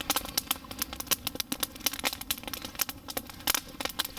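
Campfire wood crackling and popping in a dense, irregular run of sharp snaps.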